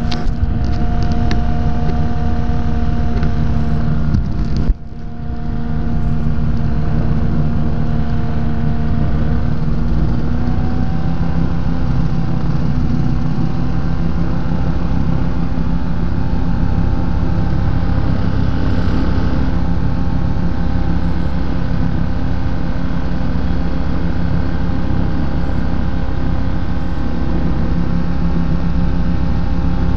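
The Rotax engine of a Quad City Challenger ultralight runs steadily at power. There is a brief drop in level about five seconds in, and the engine note rises slightly in pitch around ten seconds in.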